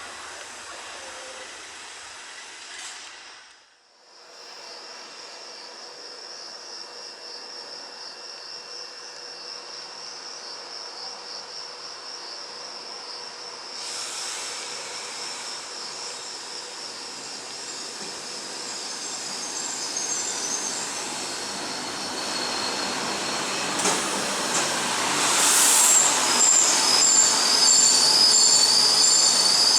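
Cicadas chirring steadily while a train approaches along the track, growing louder over the last several seconds. High-pitched wheel squeal comes in near the end as it draws in.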